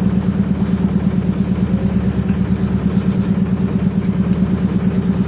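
Canal boat's diesel engine running steadily under way, with a rapid even beat.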